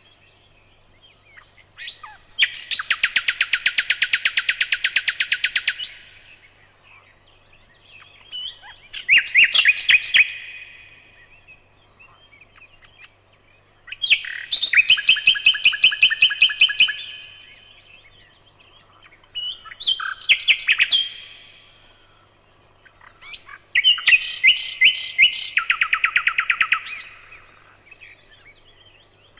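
Nightingale singing: five separate phrases of fast, repeated, rattling and trilling notes, each a couple of seconds long, with short pauses between.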